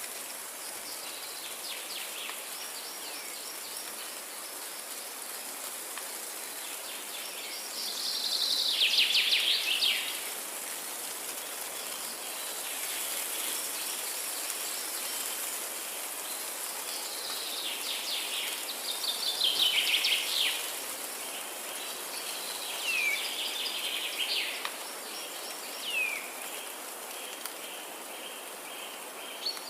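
Forest songbirds singing in quick trilled phrases, loudest twice, about a third of the way in and again around two-thirds in, then short downward-sliding whistled notes near the end. A steady high hiss of insects runs underneath.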